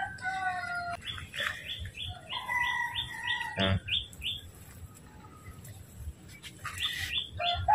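A small bird chirping in quick runs of short, falling notes, about three a second, then again briefly near the end, with one sharp knock a little past the middle.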